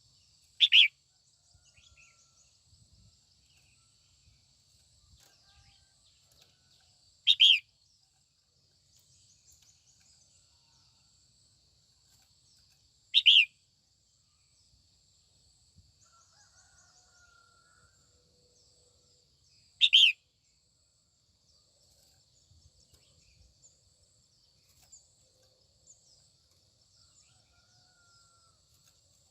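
Female red-whiskered bulbul giving short, sharp calls, four in all, spaced about six and a half seconds apart, over a faint, steady, high-pitched background sound.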